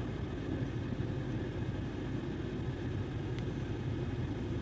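Range Rover Evoque idling, heard from inside the cabin as a steady low hum.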